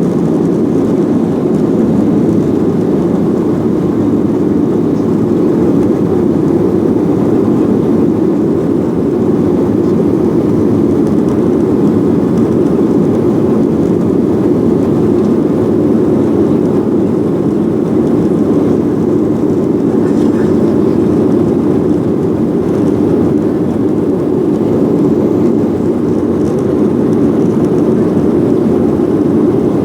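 Steady jet engine and airflow noise of a Boeing airliner heard inside the passenger cabin, an even low rumble that holds level throughout.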